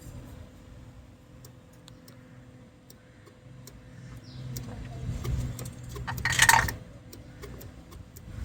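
Nissan Vanette's A15 four-cylinder engine running with a light metallic ticking and rattling from a worn timing chain, damage the owner puts down to skipped oil changes. A brief, much louder burst of noise comes about six seconds in.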